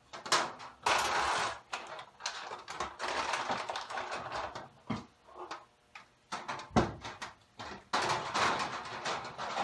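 Metal motorcycle fork parts being handled and fitted together: irregular clicks and clinks, stretches of scraping, and a sharp knock about seven seconds in.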